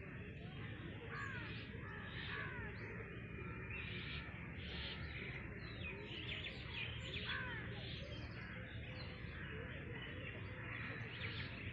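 Several birds chirping and calling over one another in a dense chorus of short, quick chirps, over a steady low background rumble.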